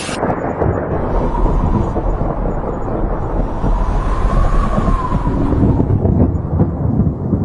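Rolling thunder: a long, loud, low rumble that starts abruptly.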